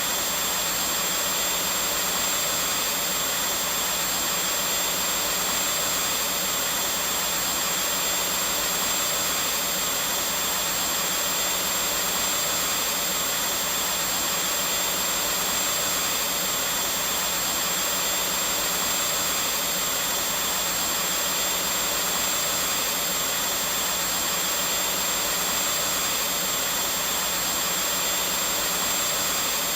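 Vacuum cleaner running continuously at a steady level: an even rushing hiss with a thin, constant high whine.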